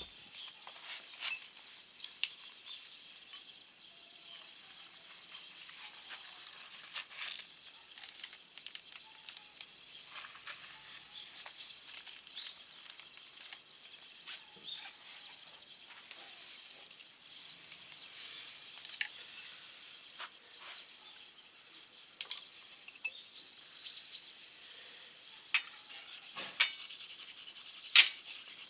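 Irregular small clicks, taps and crackles over a faint steady hiss, with a few louder sharp clicks near the start and near the end.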